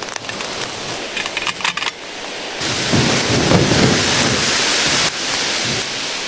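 Blizzard wind and blowing snow making a steady hiss with scattered light ticks. The hiss grows louder about two and a half seconds in and drops off suddenly about five seconds in.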